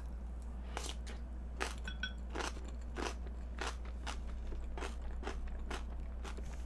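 Chewing a mouthful of cabbage kimchi: crisp crunches, about two a second.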